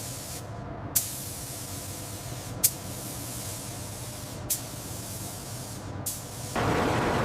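A high spray hiss that cuts off and restarts several times, each restart beginning with a sharp click, roughly every one and a half to two seconds. The hiss stops shortly before the end, when a louder, fuller rushing noise takes over.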